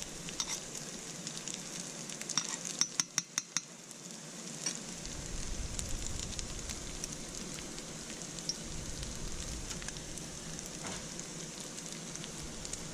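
Salmon patties sizzling gently in olive oil in a stainless steel pan on low heat: a steady crackling hiss, with a quick run of sharp clicks about three seconds in.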